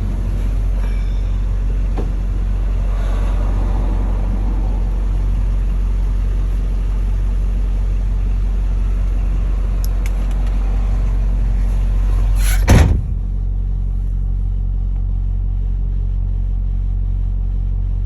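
Ford F-550 service truck's engine idling steadily, with one short loud thump about thirteen seconds in, after which the hiss above the engine drops away.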